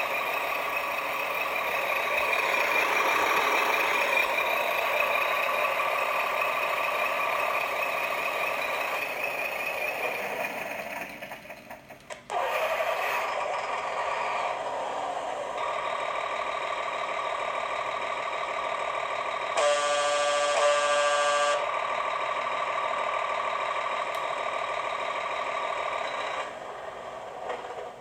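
1/16-scale RC 6x6 military trucks running, a steady droning whine that fades out about twelve seconds in and starts again sharply. Around twenty seconds in, a loud horn-like tone sounds for about two seconds.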